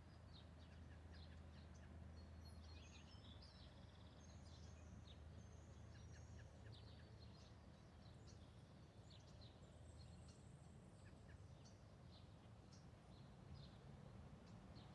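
Faint outdoor ambience: scattered short bird chirps and calls over a low, steady background rumble.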